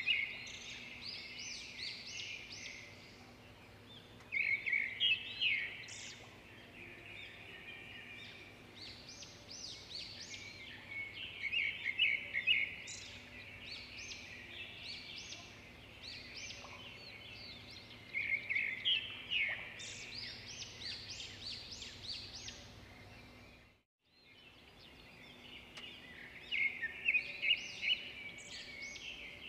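Small birds chirping and twittering in short quick bouts every few seconds, over a faint steady hum. The sound cuts out completely for a moment about four-fifths of the way through.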